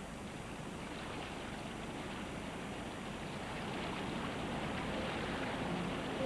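Floodwater of a sand river flowing again after the rains: a steady rush of water that grows slightly louder.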